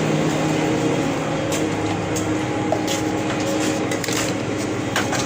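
Steady machine hum, with a few faint clicks.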